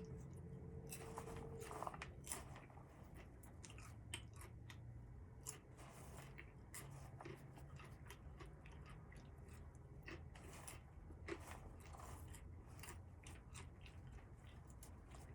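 Faint, irregular small clicks and crunches over a low steady hum, busiest in the first couple of seconds and again about two-thirds of the way through.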